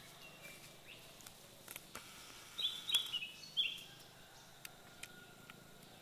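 Forest birds calling. About halfway through comes a quick run of short, high notes, each falling in pitch, with scattered faint chirps over quiet forest background.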